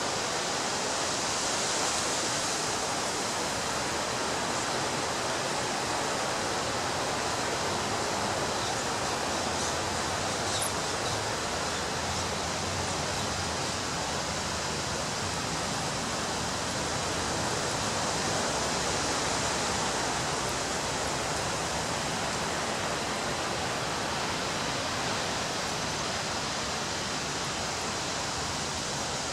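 Ocean waves breaking on a beach: a steady wash of surf that swells a little about two seconds in and again a little past the middle.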